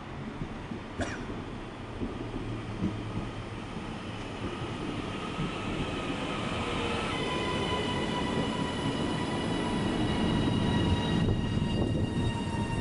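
Passenger train running through a station, its rumble growing steadily louder as it comes closer. Steady high whining tones from its drive join in, stepping up to several higher notes about seven seconds in.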